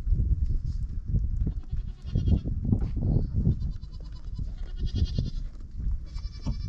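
Oberhasli dairy goats bleating, about four short, quavering calls, over a steady low rumble of handling noise.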